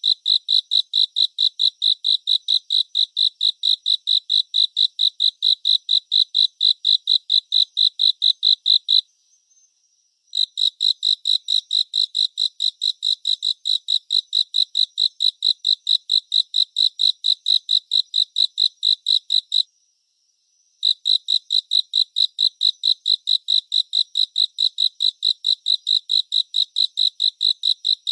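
Cricket chirping: a fast, even train of high-pitched pulses, about four to five a second, that breaks off for about a second twice and then resumes.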